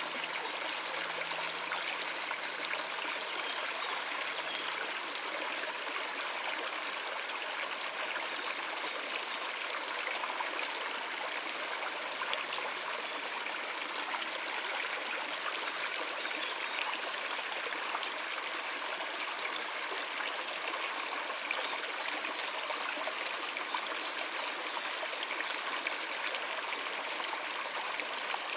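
Shallow stream of water running steadily over rocks, a continuous even rushing and trickling.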